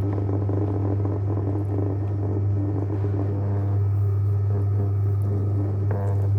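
JW Ratcliffe and Sons electric pottery wheel running at a steady speed, its motor giving a constant low hum.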